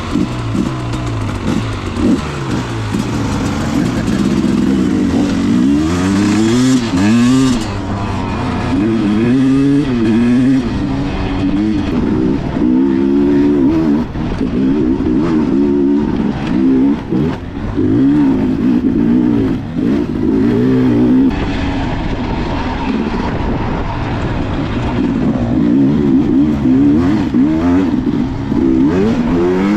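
Enduro dirt bike engine revving up and down continually as it is ridden along a trail, its pitch rising and falling every second or two, with rushing wind noise behind it.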